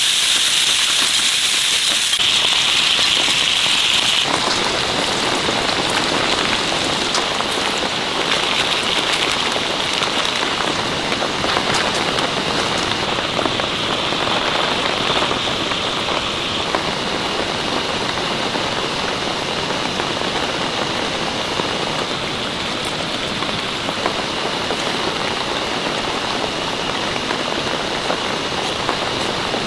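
Heavy rain falling steadily, an even hiss that eases a little about halfway, with a few sharp ticks among it.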